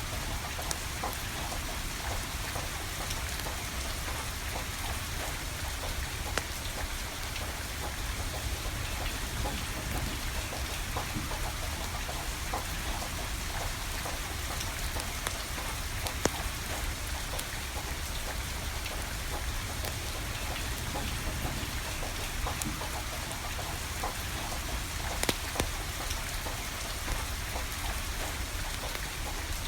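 Steady rain falling, with a wood fire crackling and popping here and there, a few sharper pops standing out.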